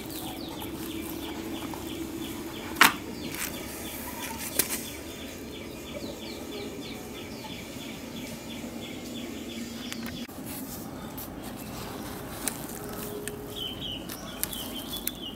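Birds calling in a fast run of short, evenly repeated chirps over a steady low background hum. A single sharp knock about three seconds in is the loudest sound, with a smaller one a couple of seconds later.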